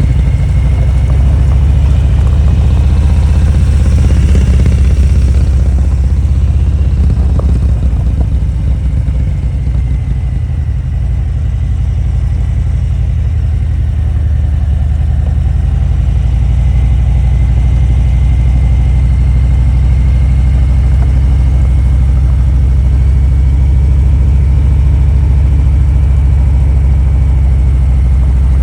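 Harley-Davidson motorcycle's V-twin engine running steadily with a loud, deep sound, swelling briefly about four seconds in.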